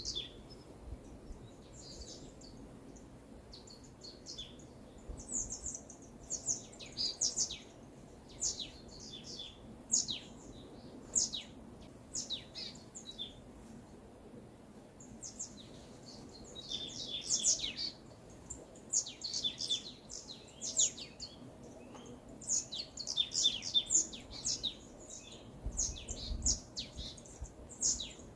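Small songbirds chirping and trilling in quick high-pitched bursts, coming in clusters with short lulls between them, over faint steady background noise.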